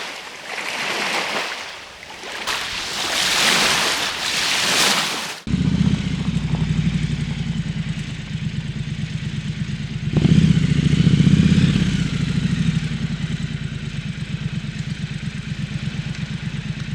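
A rushing noise that swells and fades several times for about five seconds. Then an abrupt cut to a Triumph Scrambler 1200 XE's parallel-twin engine running with a steady pulsing exhaust, which gets louder for a couple of seconds about ten seconds in.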